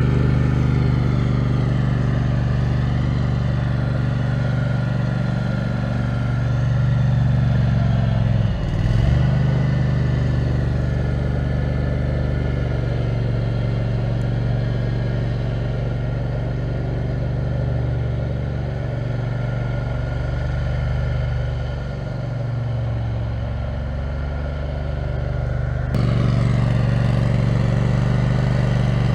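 Kohler 18 HP Command engine of a 6x4 offroad lawn mower running steadily under way. The engine note dips briefly about nine seconds in, and the sound turns suddenly louder near the end.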